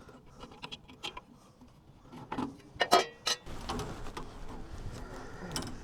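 Scattered light clicks and a few louder knocks of hand work on a bandsaw sawmill, with a low steady rumble coming in about halfway through.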